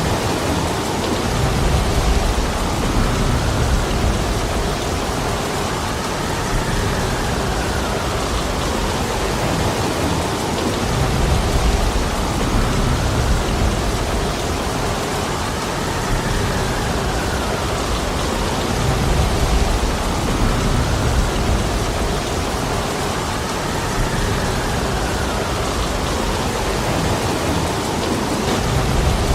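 Heavy rain falling steadily with gusting wind, the low rumble swelling and easing every few seconds.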